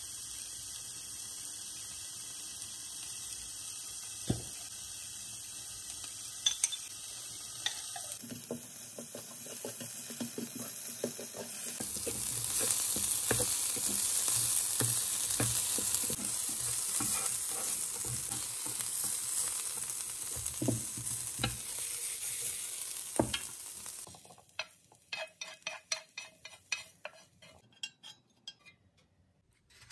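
Vegetables sizzling as they are stir-fried with chopsticks in a small rectangular pan, the chopsticks clicking against the pan. The sizzling grows louder about twelve seconds in and stops about twenty-four seconds in, leaving a run of light taps and scrapes as the food is pushed out of the pan.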